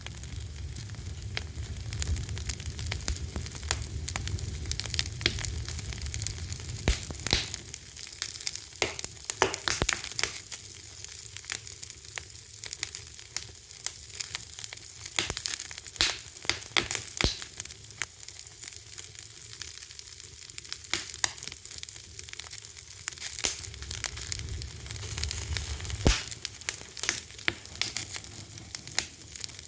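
Wood fire crackling: irregular sharp pops and snaps over a steady hiss and a low rumble of flame.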